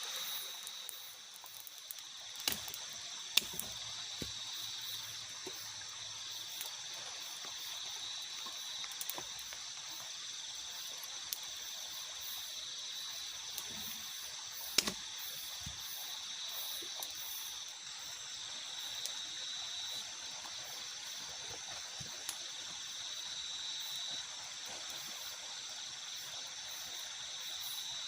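Night forest ambience: a steady high chirring, with a pulsing note every couple of seconds, over a soft hiss of light drizzle. A few sharp clicks, the loudest about three seconds in and near the middle.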